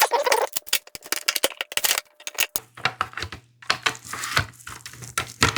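Plastic electronic toy being handled: dense, irregular clicking and clattering of plastic casing and small metal battery parts. A low steady hum joins in about halfway through.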